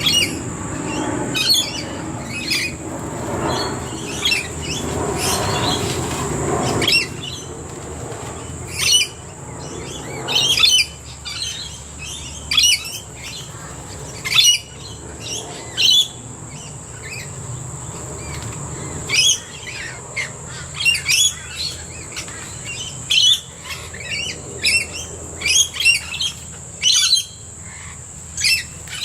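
A mixed flock of backyard birds, rainbow lorikeets among them, giving many short, shrill squawks and chirps, one every second or so, over a steady high hiss. A low rumble underlies the first seven seconds, then fades.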